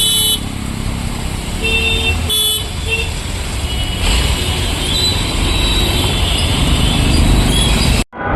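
Road traffic: vehicles running with a steady rumble and horns honking. A horn ends just after the start, then come several short toots around two to three seconds in. The sound cuts out abruptly for a moment near the end.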